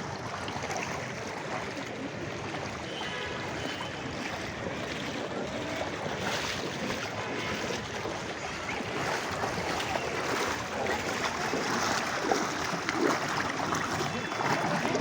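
Steady rush of water from heavy rain and floodwater, growing a little louder and more uneven in the second half.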